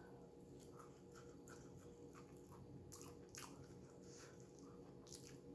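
Faint, close mouth sounds of someone chewing food: soft wet clicks and smacks at an irregular pace over a low steady hum.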